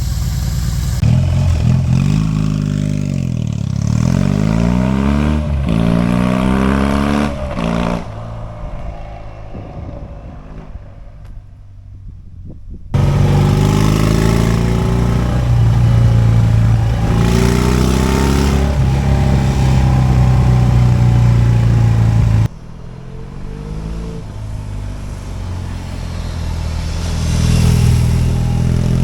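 BMW R18 motorcycle's big boxer twin running through modified, louder fishtail exhaust pipes, revving up and dropping back as it accelerates through the gears. It backs off to a quieter run for a few seconds about a third of the way in, then comes back suddenly on hard throttle.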